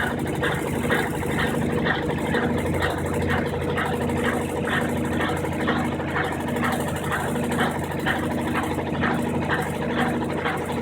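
Brastemp 15 kg washing machine's drain pump running steadily, emptying the rinse water ahead of the spin cycle, with a quick regular pulsing of about three beats a second over its hum.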